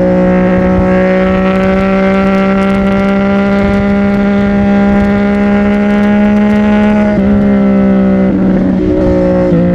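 CFMOTO 675NK's inline three-cylinder engine through a titanium aftermarket exhaust, running loud and steady at a constant high pitch. About seven seconds in the pitch drops sharply, and it wavers twice more near the end before holding steady again.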